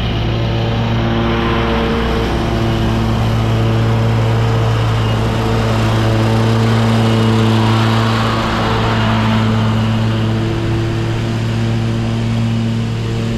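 Commercial lawn mower engine running steadily while mulching leaves, with a rushing noise that swells about two seconds in and again around eight seconds.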